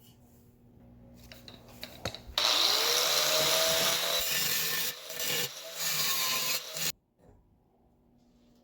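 A handheld power tool starts about two seconds in, its motor spinning up, runs for about four and a half seconds with two brief dips, and cuts off suddenly. Light rubbing or scraping comes before it.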